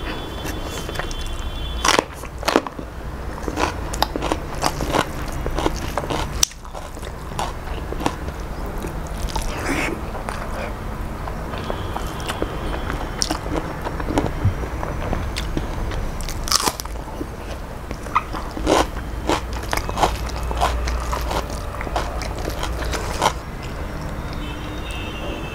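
Close-miked eating: a mouthful of shrimp polau and fried fish being chewed, with irregular crunches and wet mouth clicks and smacks. The sharpest snaps come about 2 seconds in and about 6 seconds in.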